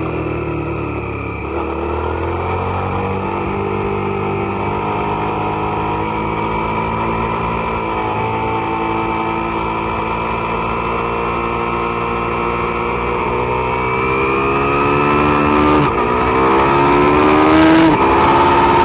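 Suzuki SV650's V-twin engine pulling hard under throttle, its pitch climbing slowly and steadily, then two quick upshifts near the end, each a sudden drop in pitch, as the engine grows louder.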